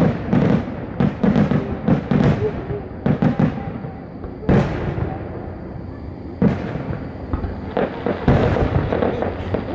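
Fireworks shells bursting overhead: a rapid run of booms and crackles in the first few seconds, a single loud bang about four and a half seconds in, another near six and a half seconds, then a dense flurry of booms near the end.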